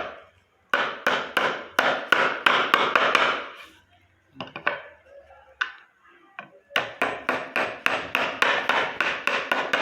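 Hammer tapping quickly and evenly on a small drift, about four blows a second, driving a new bearing into a wheelchair wheel hub. The blows come in two long runs with a short pause between them, filled only by a few faint clicks.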